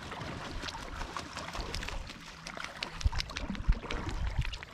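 Kayak paddle strokes: water splashing and dripping off the paddle blades in many small, irregular splashes.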